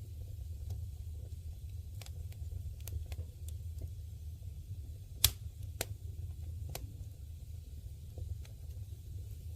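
Wood campfire crackling: scattered sharp pops and snaps over a low steady rumble, the loudest pop about five seconds in.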